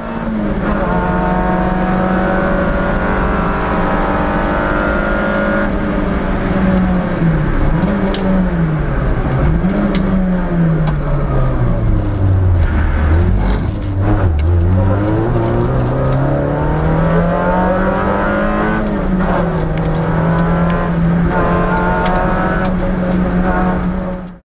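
Peugeot 106 S16 rally car's 1.6-litre 16-valve four-cylinder engine heard from inside the cabin. Its revs hold steady at first, then dip and rise several times, drop lowest around halfway, and climb back to hold steady again near the end.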